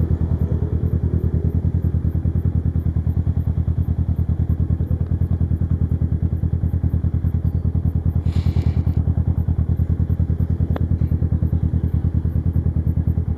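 Kawasaki Versys 650's parallel-twin engine running at a steady low speed, a fast even pulsing with no revving. A short hiss comes about eight seconds in, and a sharp click a couple of seconds later.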